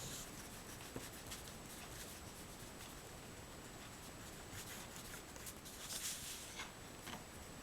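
Oil pastel stroking and rubbing on paper: faint, scratchy strokes, a little louder for a moment about six seconds in.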